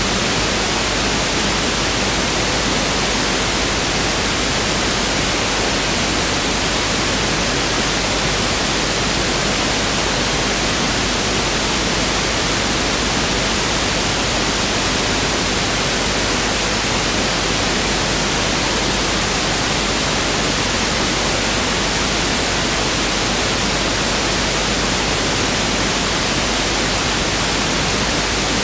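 Pink noise test signal: a steady, even hiss spread across the whole frequency range, unchanging throughout.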